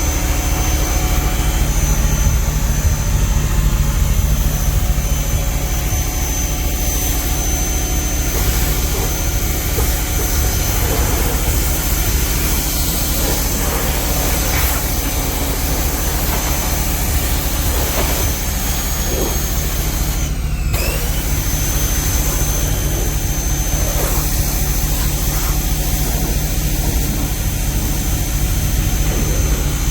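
Portable generator engine running steadily under load, mixed with a Portland 1750 PSI electric pressure washer's motor and water spray.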